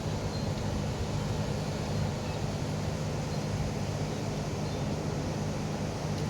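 Steady low hum with an even hiss, unchanging throughout: constant background machine or room noise.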